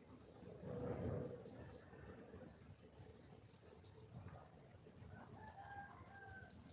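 Wild junglefowl hen calling, faint: a louder low call about a second in and short pitched calls in the second half, with small birds chirping high-pitched throughout.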